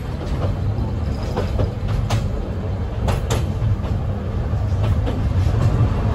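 Railway passenger car running along the track, heard from inside: a steady low rumble with sharp wheel clicks over the rails about two seconds in and twice more a second later.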